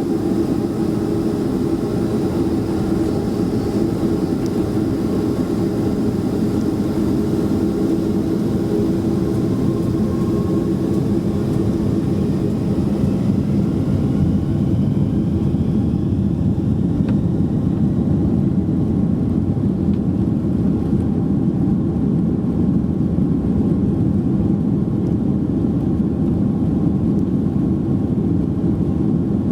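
Steady engine and airflow drone of a Boeing 767-300ER heard inside the passenger cabin in flight, with a steady hum that eases slightly about halfway through and a faint rising whine shortly before that.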